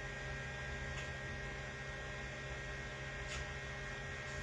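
Steady electrical mains hum, with two faint ticks, about a second in and near the end.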